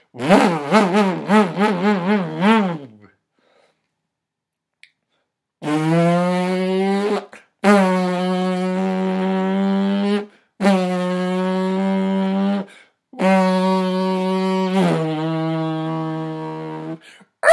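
A person imitating a race car with the mouth: first a wavering engine buzz that rises and falls about three times a second for nearly three seconds. Then, after a pause, come four long steady buzzing notes of two to four seconds each, with short breaks between.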